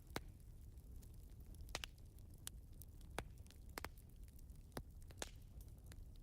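Wood fire crackling, with about seven sharp, irregular pops over a faint low rumble.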